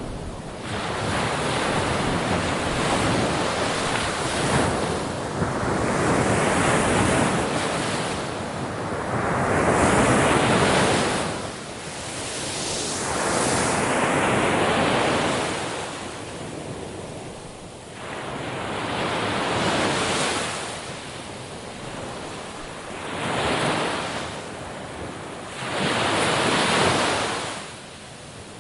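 Ocean waves breaking on a shore, a steady hiss of surf that swells and falls back as each wave comes in, every few seconds, with some wind noise on the microphone.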